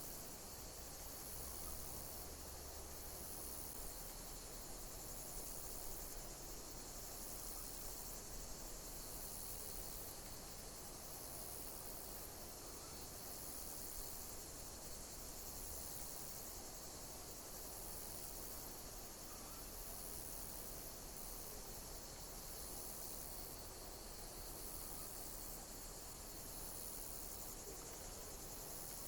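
Insects chirping: regular high chirps about every second and a half over a steady high-pitched drone of more insects.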